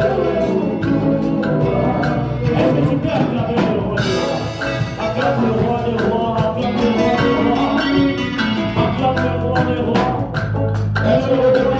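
Live worship music from a church band: a drum kit keeping a steady beat under other instruments, with voices singing.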